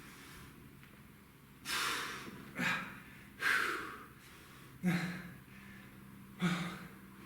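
A man breathing hard from exertion: five sharp, noisy exhales and gasps roughly a second apart, a few with a short grunt in them.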